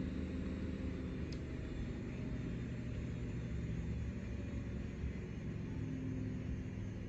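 A steady low rumble with a faint hum underneath.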